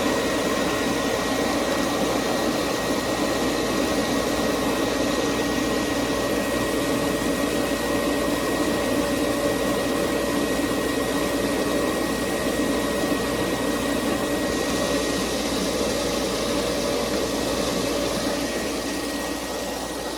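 Pool pump motor running steadily, a continuous mechanical hum with a faint steady whine.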